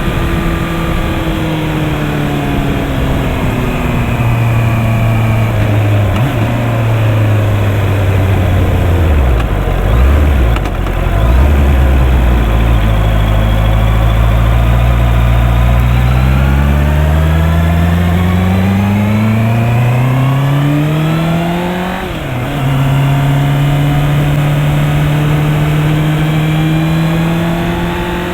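Honda CB650R's inline-four engine under way: its note falls as the bike slows over the first ten seconds or so, then climbs steadily under acceleration. It drops sharply with an upshift about 22 seconds in and climbs again.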